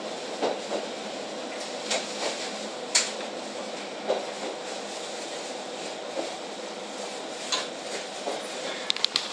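Inside a KiHa 40 diesel railcar running along the track: a steady rumble with a sharp clank or click every second or so, and a quick run of clicks near the end.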